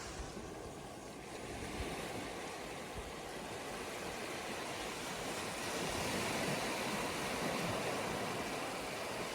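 Sea waves breaking and washing up a sandy beach, swelling louder about a second and a half in and again past the middle.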